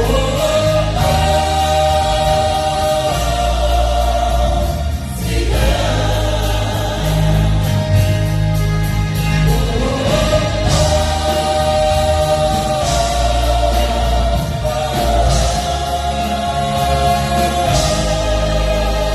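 Gospel choir singing with instrumental backing: long held notes that swoop up into each phrase, over a steady bass.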